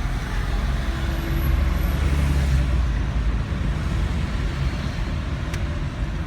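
Car driving, heard from inside the cabin: a steady low engine and road rumble with tyre noise.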